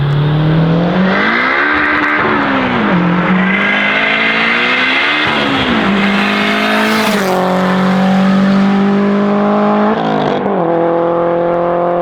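Turbocharged Honda K20A2 four-cylinder in an Acura RSX running hard under load, its pitch climbing and dropping back several times as it pulls and shifts. A brief hiss comes about seven seconds in.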